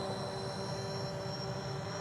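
Two-stroke single-cylinder engine of a KTM 50 SX mini dirt bike running at a steady pitch, with no revving up or down.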